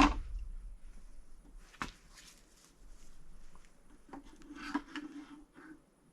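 A borescope probe being fed into a BMW N55 engine block by hand, with light rubbing and scraping of the cable against the parts and a sharp click about two seconds in.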